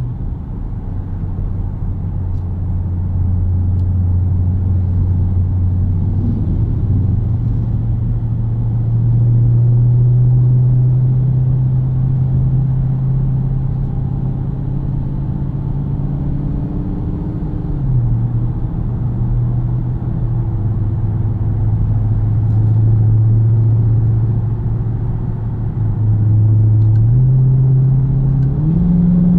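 The 6.4-liter Hemi V8 of a 2015 Dodge Charger R/T Scat Pack, heard from inside the cabin while driving. It hums at a steady pitch that steps up or down a few times and climbs near the end, over road noise.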